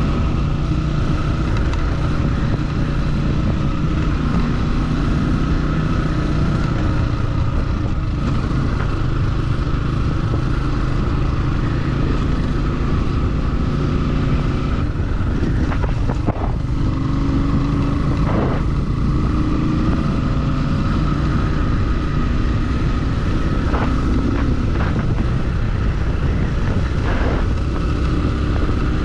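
Motorcycle engine running at a steady speed while riding, with a few brief knocks in the second half.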